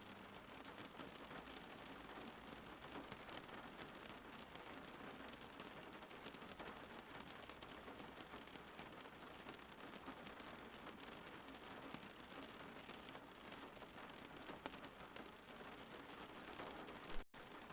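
Steady rain falling outside: a faint, even hiss of rain with fine patter of drops. Near the end a single sharp click is followed by a split-second dropout of all sound.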